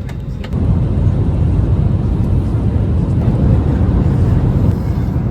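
Airliner cabin noise: a steady low rumble of the engines and airflow, which grows louder about half a second in. A couple of faint clicks come near the start.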